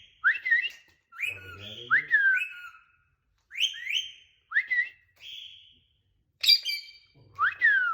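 Pet parrot giving a run of short whistles, each sweeping sharply up in pitch and then falling, with a harsher, buzzier call about six and a half seconds in.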